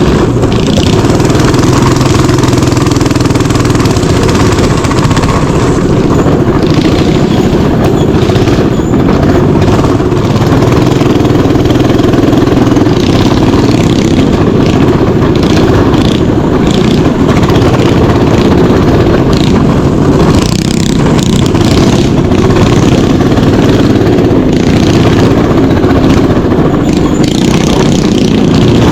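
Mini bike engine running loud and without a break.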